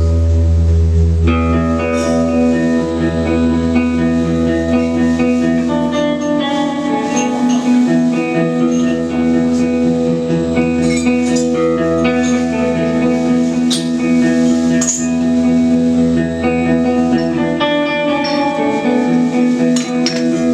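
Live instrumental post-rock played by a trio of electric guitar, electric bass and drums: sustained, ringing electric guitar notes over a held bass, with a few light high taps scattered through.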